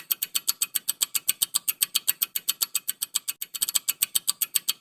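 Clock-ticking countdown sound effect: a steady run of sharp, high ticks, about eight a second, timing the pause for the answer.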